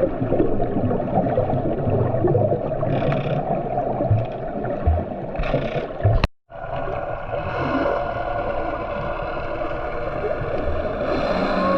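Muffled underwater sound picked up by a camera below the sea surface: a steady rushing, gurgling water noise. It cuts out completely for a moment about six seconds in, then comes back a little brighter.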